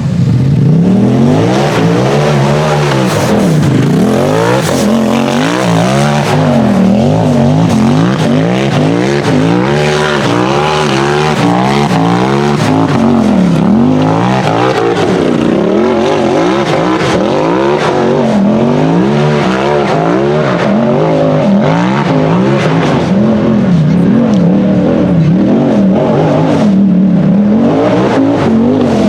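A side-by-side (UTV) race engine revving hard and continuously, its pitch climbing and dropping over and over every second or two as the throttle is worked on and off.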